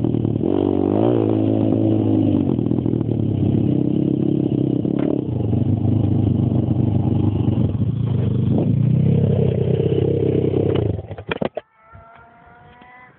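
Stomp Superstomp x140 pit bike engine running hard, heard from a helmet camera, its pitch rising and falling with the throttle. It cuts off abruptly about eleven seconds in, leaving a fainter, higher, slowly rising tone for the last second or so.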